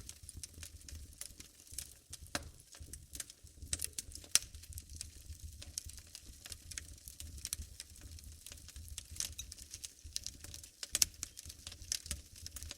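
Wood fire crackling in a fireplace: irregular sharp pops and snaps over a low steady rumble, with the loudest pops about four seconds in and near the end.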